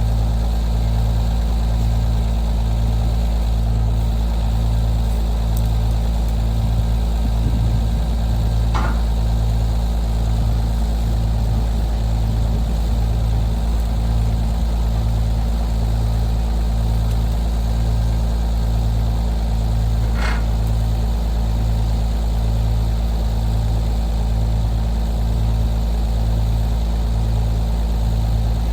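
A vehicle engine running at a steady drone. Its low hum swells and fades about once a second. Two brief faint high chirps come through, one about nine seconds in and one about twenty seconds in.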